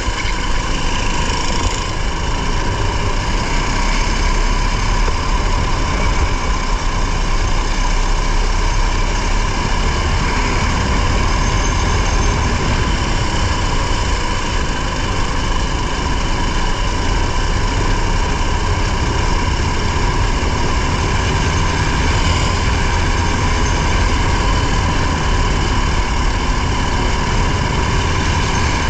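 Vehicle engine running at a steady, even speed close to the microphone, with a constant low rumble and no revving.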